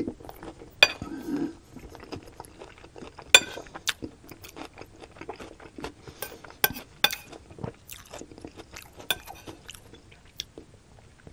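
Close-miked chewing and crunching of a vegetable stir-fry of bok choy and celery, mixed with a metal spoon clinking and scraping on a ceramic plate. The sharpest clicks come about a second in and again about three and a half seconds in.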